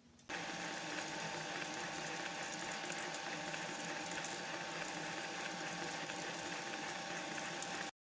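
Homemade lathe running steadily with a constant whine and a rasping cut, boring the centre of a steel faceplate blank with a hole saw. It starts a moment in and cuts off abruptly near the end.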